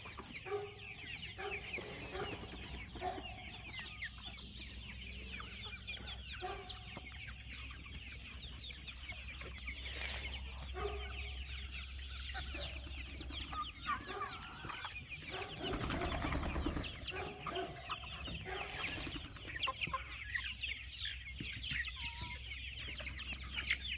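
A flock of young poultry just out of the brooder, peeping and cheeping continuously in a dense high chorus, with scattered lower clucking calls among them.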